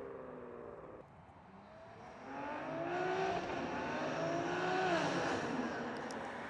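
BMW S58 twin-turbo inline-six with an equal-length titanium X-pipe catback and catless downpipes, accelerating hard. The pitch rises through a gear, drops at an upshift about three seconds in, rises again, then falls off as the throttle is lifted.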